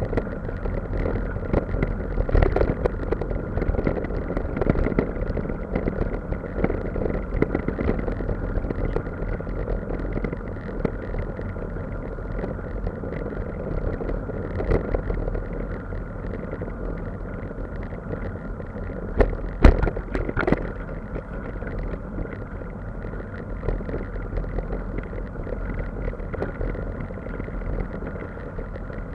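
A vehicle running steadily: a continuous low rumble with a faint steady tone above it, and two sharp knocks a little past the middle.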